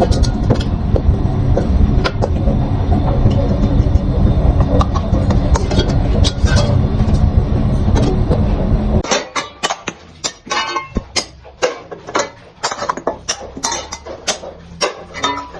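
A loud steady workshop machine rumble with scattered clicks, which cuts off suddenly about nine seconds in, leaving irregular sharp knocks and clatter of metal being handled or tapped.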